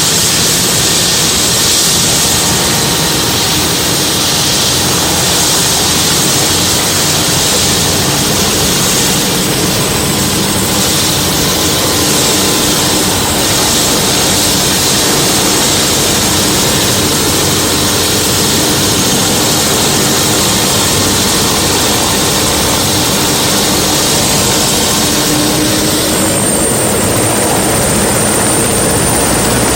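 Helicopter running close by: a loud, steady engine and rotor noise with a faint low hum. About four seconds before the end the hiss thins and a high whine comes in.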